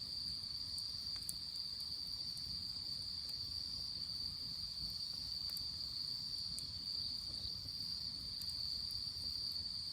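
Crickets trilling in a steady, high-pitched chorus, with a few faint crackles from the wood fire.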